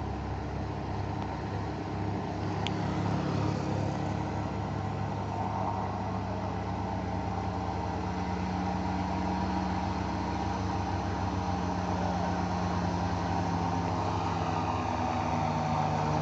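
An old motor vehicle's engine running steadily, a low even hum that grows slightly louder through the stretch, with a single faint click about three seconds in.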